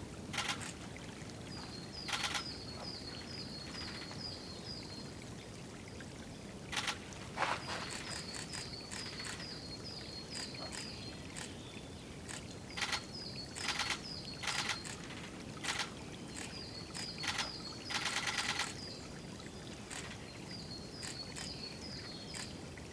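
Wild songbird at a woodland watering spot repeating quick runs of short, high notes, again and again. These are interrupted by sharp louder bursts, with a longer one near the end.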